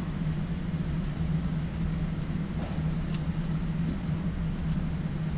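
Steady low mechanical hum, with a faint sharp pop about three seconds in, like a distant shot.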